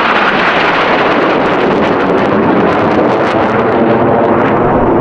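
Loud, steady jet engine noise from low-flying Blue Angels F/A-18 Hornets just after a pass, with a crackle through the middle.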